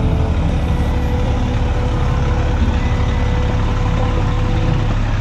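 A vehicle engine running steadily, a low rumble with a faint steady hum above it.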